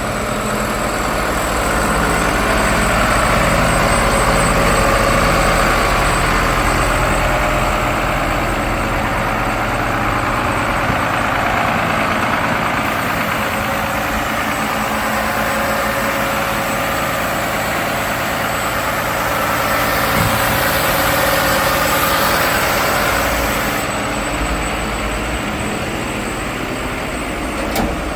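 Iveco Stralis 330 EEV refuse truck's six-cylinder diesel engine running steadily. It swells in loudness twice, a few seconds in and again about twenty seconds in.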